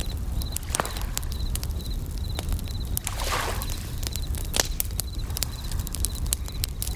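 Campfire crackling with frequent sharp pops over a steady low rumble, while bell crickets trill in short, high, repeated pulses. A brief rushing swell comes about three seconds in.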